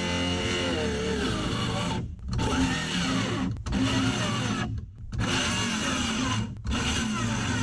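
Cordless power tool running in bursts, stopping briefly about four times before starting again.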